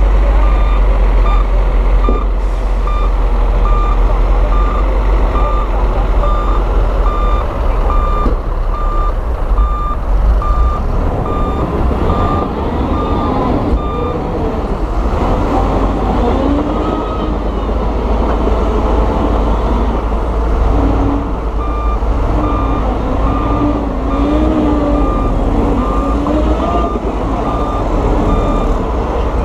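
Heavy diesel earthmoving machinery running with a deep engine rumble while a reversing alarm beeps steadily. The beeping stops about halfway through and starts again near the end.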